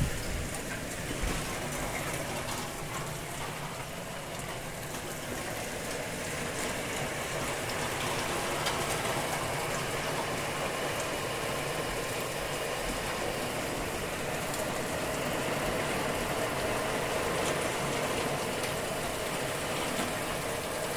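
Heavy rain falling steadily, a dense even patter of drops on surfaces, with a brief knock about a second in.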